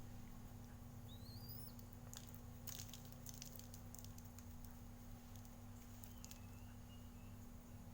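Faint background sound: a short rising bird chirp about a second in, a cluster of light clicks and taps in the middle, and a faint thin whistle near the end, over a steady low hum.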